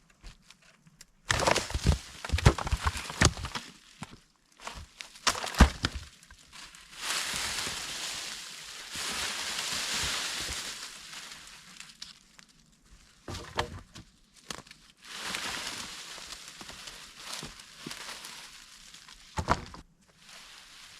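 Close rustling and crunching of handled material, with several sharp knocks and thumps, loudest in the first few seconds and again briefly near the end.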